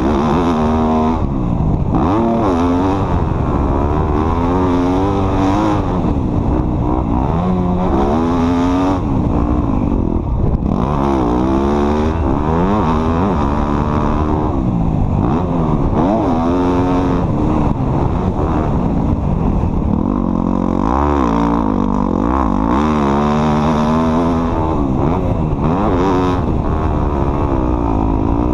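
Off-road vehicle engine revving up and down over and over, its pitch climbing and dropping every second or two.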